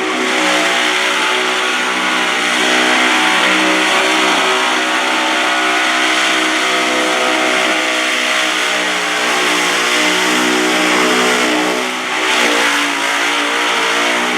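Supercharged big-block Ford V8 held at high revs during a burnout, over a constant hiss of spinning tyres. About twelve seconds in the revs drop briefly, then climb and waver.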